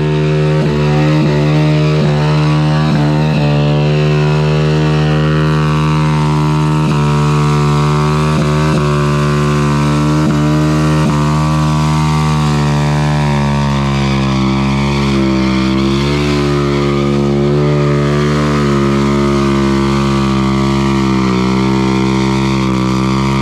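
Honda Grom's small single-cylinder engine held at high revs through a long burnout, its pitch steady with a few brief dips in the first half and a slow wavering later.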